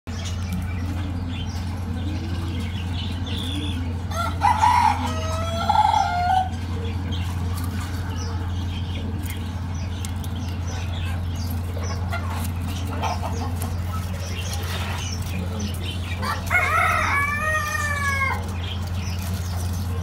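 Two drawn-out bird calls, one about four seconds in and another near the end, the second falling in pitch at its close, over a steady low hum.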